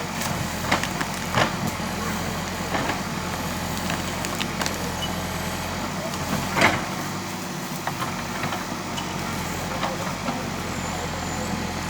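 JCB backhoe loader's diesel engine running steadily under work, with scattered sharp knocks and clanks, the loudest about six and a half seconds in.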